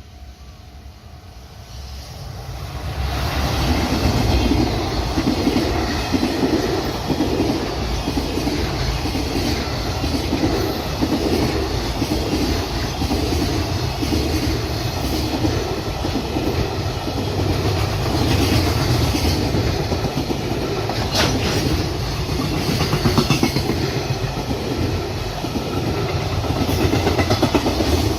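Freight train passing, its wheels clacking over the rail joints in a steady, repeating rhythm. The sound swells over the first three seconds as the train draws close, then holds loud.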